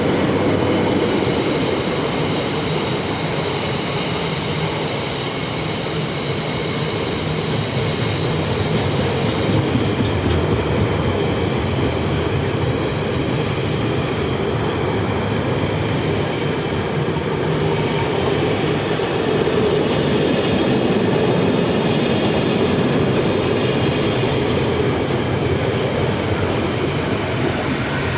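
A train running past on the line: a steady rumble of wheels on rails lasting nearly half a minute, with a faint thin whine above it.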